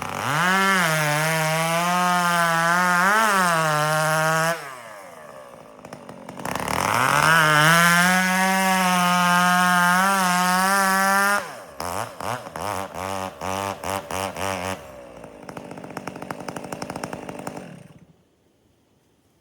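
Gas chainsaw bucking firewood: two long stretches at high revs with a drop in speed between them. After that come several quick throttle blips and a lower idle, and the engine shuts off near the end.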